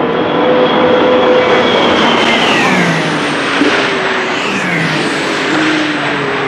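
Toyota TS050 Hybrid LMP1 prototype's 2.4-litre V6 racing engine passing at speed, its pitch falling as it goes by about two to three seconds in, followed by a lower engine note that shifts in pitch.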